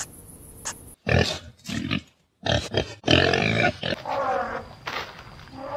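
A few faint, high chirps, then from about a second in a run of loud elephant grunts in short bursts with brief breaks between them.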